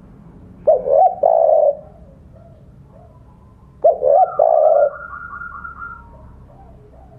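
Spotted dove (tekukur) cooing twice, about three seconds apart. Each phrase is a couple of quick rising notes followed by a longer low coo, the two-note 'kuk 2' call given to challenge rival doves. Fainter bird calls sound in the background.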